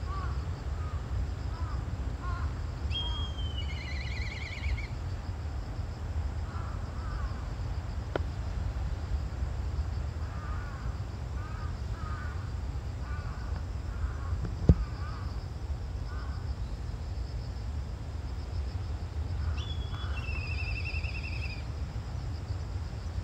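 Birds singing outdoors: a songbird twice sings a short phrase, a falling whistle that runs into a trill, about three seconds in and again near the end, with softer short calls between. A steady high hiss and a low wind rumble lie under it, and there is one sharp click about halfway through.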